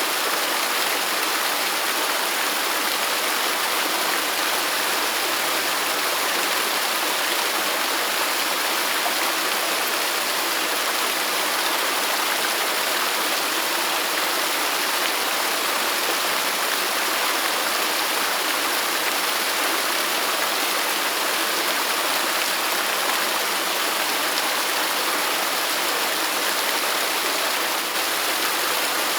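A waterfall's falling water rushing steadily, an even hiss with little deep rumble.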